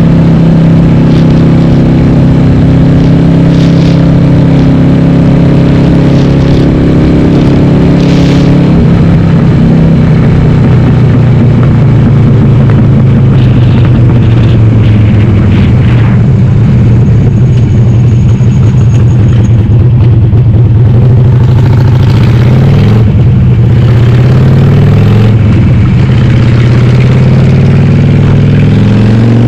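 Harley-Davidson Sportster's air-cooled V-twin, bored to 1200 cc, running loud through Cobra Speedster 909 pipes with the dB killers out. It holds a steady pitch while cruising, then sags as the throttle eases, and climbs again near the end as the bike accelerates.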